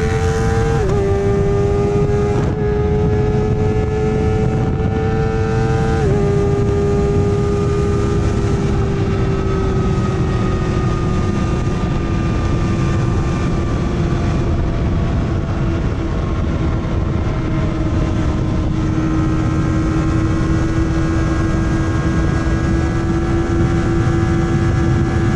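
Kawasaki ZX-4RR inline-four with a full Yoshimura exhaust running hard at high revs, with two upshifts, about a second in and about six seconds in, each dropping the pitch. It then holds a steady high-pitched drone in sixth gear that sinks slowly as the speed eases, under heavy wind rush.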